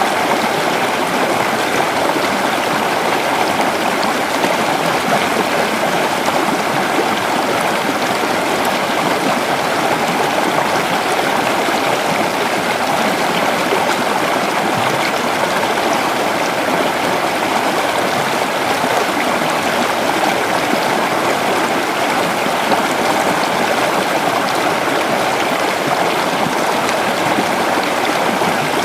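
Creek water flowing and burbling over stones, a steady, even rush with no breaks.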